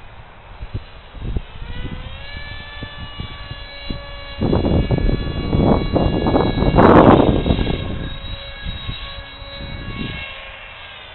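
Brushless electric motor and 6x5 propeller of a radio-controlled foam flying wing, rising in pitch about two seconds in as the throttle opens, then running at a steady high whine. Heavy wind buffeting on the microphone runs underneath it and is loudest about seven seconds in.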